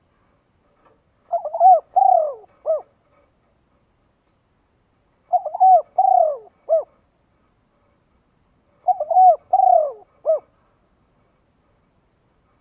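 A dove or pigeon cooing: three phrases, each a quick stutter, a longer falling note and a short final note, repeating about every three and a half seconds.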